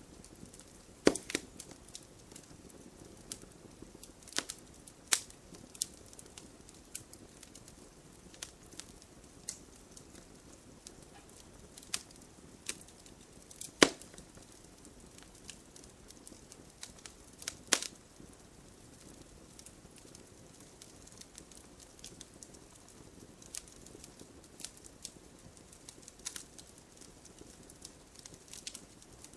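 Wood fire crackling over a soft steady hiss, with irregular sharp pops; the loudest snaps come about a second in, at about five, fourteen and eighteen seconds, with quieter ones scattered between.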